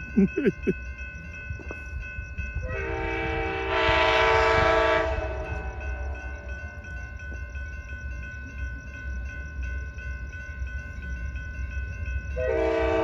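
Locomotive horn of the approaching Amtrak Sunset Limited: one long chord blast about three seconds in, lasting about three seconds, and another starting near the end, over the low rumble of the oncoming train.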